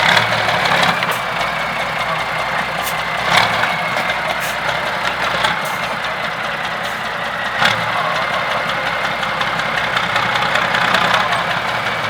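Off-road trial truck's diesel engine running steadily, with a steady high whine and three sharp knocks spread through.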